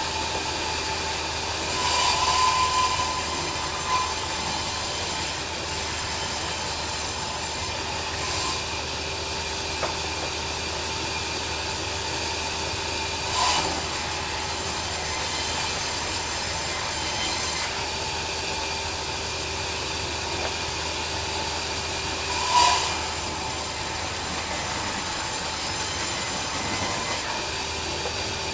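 Bandsaw sawmill running steadily, its blade sawing through a log with a constant hissing drone, broken by three brief louder moments.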